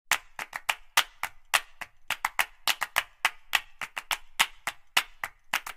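A fast, uneven run of sharp percussive clicks, about five a second.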